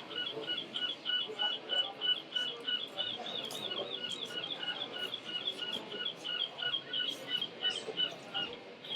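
A high chirping sound repeating about four times a second in a steady rhythm, over a low murmur of hall noise.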